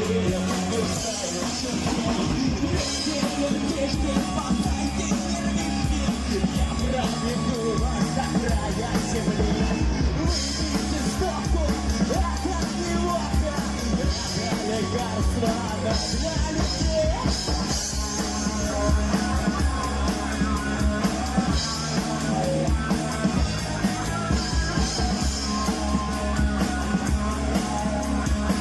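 Rock band playing a song with a singer: electric guitars, bass and drums at a steady beat.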